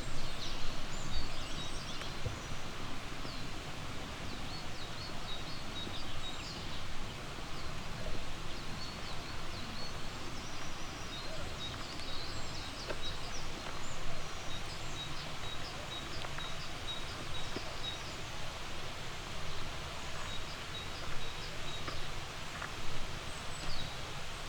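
Several songbirds chirping and singing over a steady rushing background, with one bird repeating a short high note many times in a row about halfway through.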